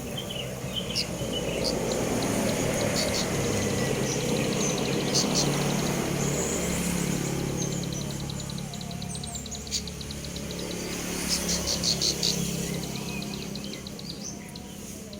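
Young cemblek sawah bird giving short high chirps and fast, even trilling runs, practising its soft 'ngebrem' song, over a steady low rumble.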